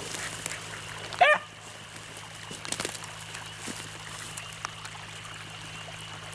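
A beagle bays once, a short wavering cry about a second in, as the pack trails a rabbit, over the steady trickle of running creek water.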